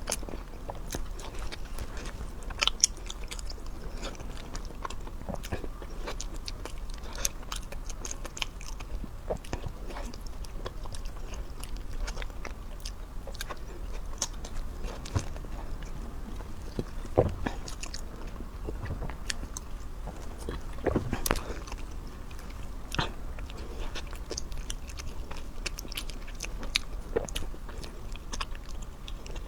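Close-miked eating: a person biting and chewing food, with many irregular sharp clicks.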